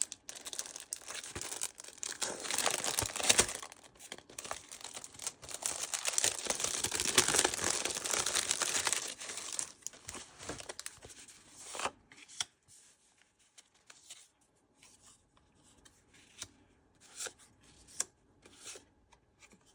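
Packaging of a pack of paper ephemera being torn open and crinkled for about twelve seconds. Then it goes much quieter, with scattered light taps and rustles as the paper pieces are handled.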